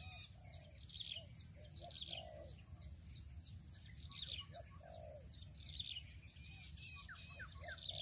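Birds calling: many quick chirps that drop in pitch, mixed with lower rounded call notes about once a second. A steady high-pitched drone runs underneath.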